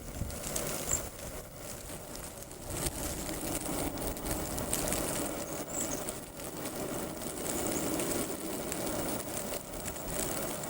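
Two faint, high, thin cedar waxwing calls, about a second in and near six seconds, over a steady rushing background with a low hum.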